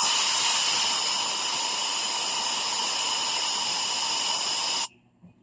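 Compressed air hissing steadily as it is blown into the exhaust port of a Yamaha Mio i 125 cylinder head, then cut off suddenly near the end. It is a leak test of the freshly lapped exhaust valve, with gasoline in the combustion chamber: no bubbles means the valve seals.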